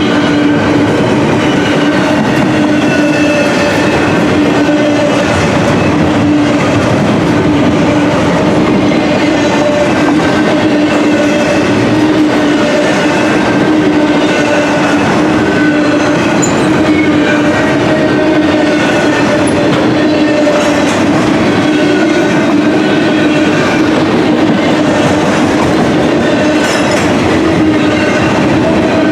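Intermodal container train rolling past, a steady loud rumble of wheels on rail with a steady held hum throughout.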